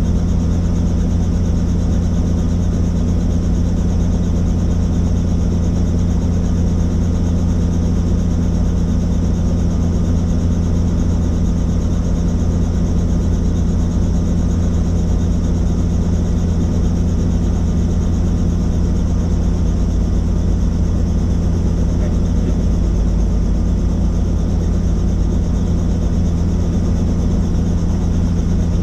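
Helicopter in flight: the rotor and engine run steadily with a constant deep drone.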